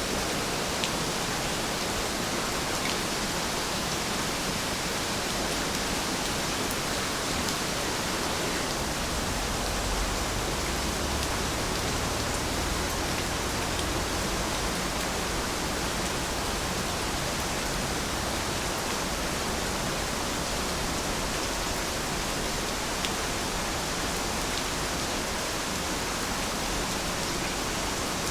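Heavy rain falling steadily: an even hiss with scattered individual drops ticking through it, and a low rumble swelling under it for a few seconds about ten seconds in.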